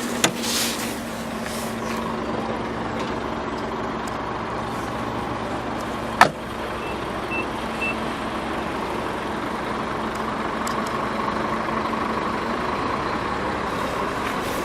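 Steady vehicle drone with a low hum, broken about six seconds in by one sharp thump like a car door or hatch closing, followed by three short high beeps.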